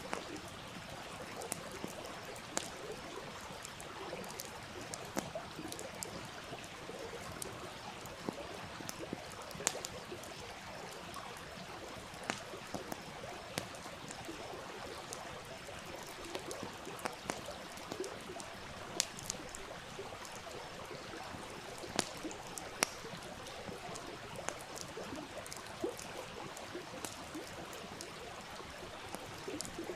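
Wood fire crackling, with irregular sharp pops and snaps, over the steady rush of a running stream.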